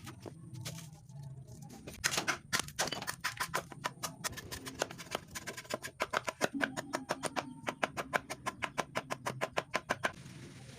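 Rapid, even strikes on metal, about five a second, starting about two seconds in and stopping shortly before the end.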